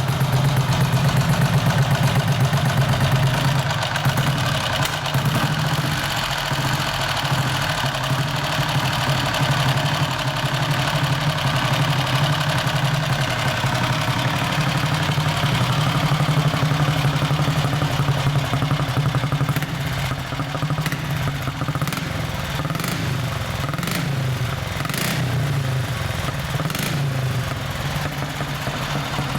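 1950 Vincent Comet's 499cc single-cylinder OHV four-stroke engine running steadily at idle, a little louder in the first few seconds, with a few sharp mechanical clicks in the second half.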